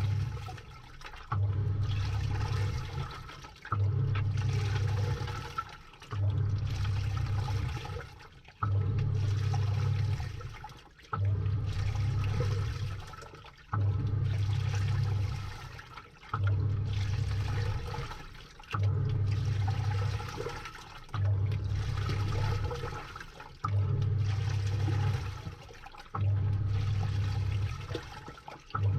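Samsung top-load washing machine agitating a wash load, heard from inside the drum: about every two and a half seconds the pulsator motor hums on for a second or so and water sloshes, then it pauses briefly before the next stroke, about a dozen strokes in all.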